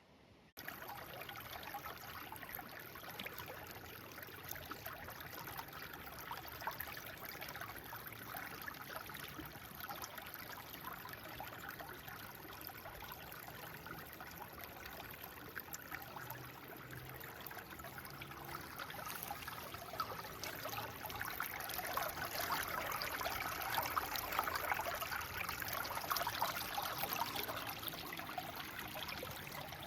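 Water running and splashing onto the ground and leaves while trees are watered, a steady trickling with many small droplet splashes. It starts suddenly about half a second in and grows louder in the last third.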